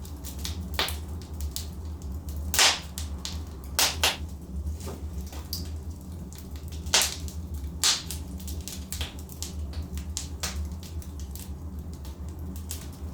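Wood fire in a fireplace crackling, with irregular sharp pops from the burning logs, the loudest a few seconds in and again about halfway, over a steady low rumble.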